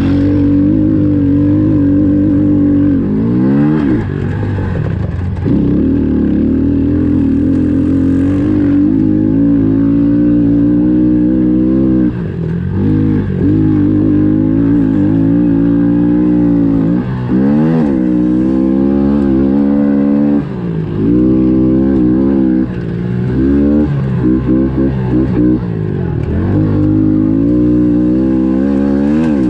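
Honda CRF110F pit bike's small four-stroke single-cylinder engine run hard at high revs, the pitch dropping and climbing back again and again as the throttle is rolled off and back on.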